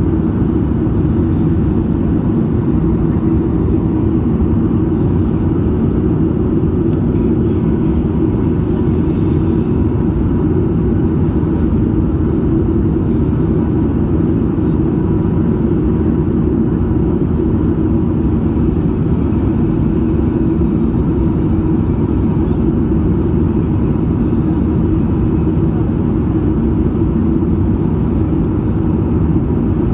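Steady low roar of jet engines and airflow inside the cabin of a Boeing 737 MAX 8 airliner in descent, with its CFM LEAP-1B turbofans running evenly and no change in pitch or level.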